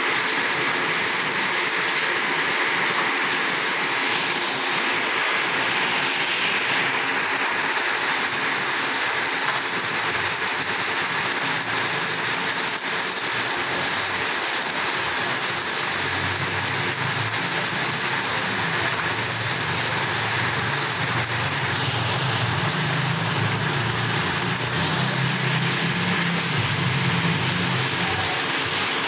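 Rain falling steadily on a concrete courtyard: a dense, even hiss. A low rumble joins in for roughly the last twelve seconds.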